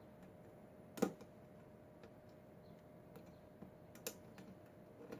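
Faint, irregular clicks of lock-picking tools working the pins inside a Schlage pin-tumbler lock, with two sharper clicks about a second in and just after four seconds.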